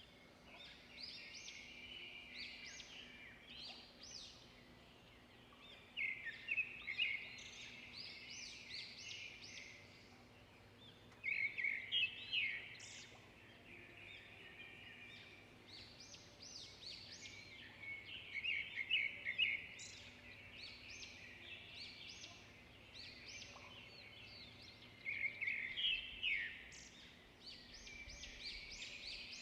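Songbirds singing: a loud, busy song phrase comes about every six seconds, with quieter chirping and twittering between the phrases.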